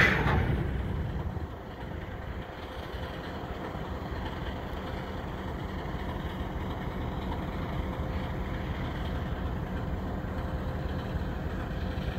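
Diesel locomotive engine running under a steady low rumble, with a faint steady whine, while the train of freight cars rolls slowly past. A short loud noise sounds in the first second.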